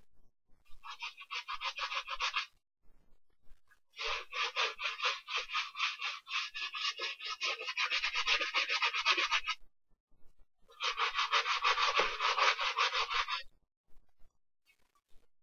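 A brush scrubbing a sneaker in three bursts of rapid back-and-forth strokes, the middle burst the longest.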